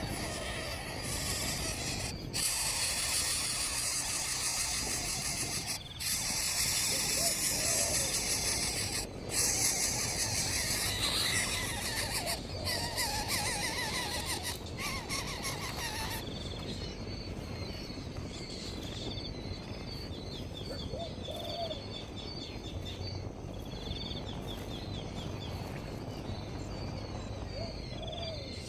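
Outdoor wildlife ambience: a loud, steady high insect drone for the first half, cutting off suddenly a little past halfway, then quieter insect chirping with occasional short bird calls.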